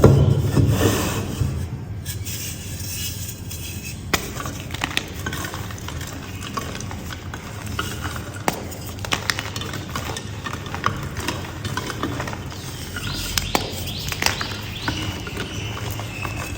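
Blocks of gym chalk being crushed: a loud crunch at the start, then a scatter of short, crisp crunches. Birds chirp faintly in the background in the later part.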